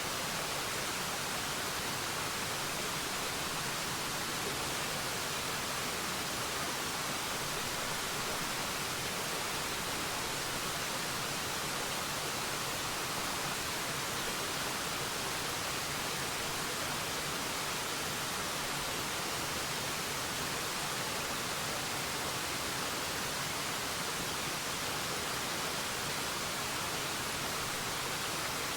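Forest waterfall rushing: a steady, even hiss that does not change.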